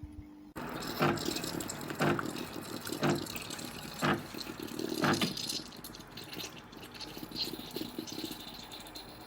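Espresso machine hissing with water and steam, spurting in strong pulses about once a second for around five seconds, then settling to a weaker, steadier hiss.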